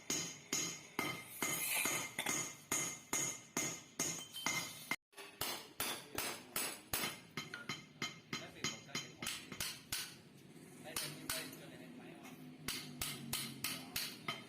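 A hammer striking a steel motorcycle exhaust pipe again and again, about three blows a second, as the pipe's inner baffles are knocked out. The blows break off briefly about five seconds in and then carry on.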